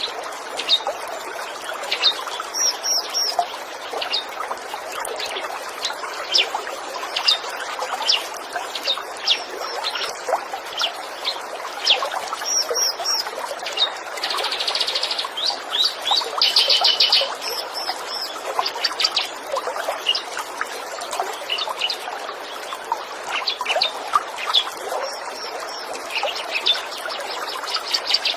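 Small songbirds chirping and trilling: many short, sharp calls with a fast trill about 17 seconds in, over the steady trickle of running water.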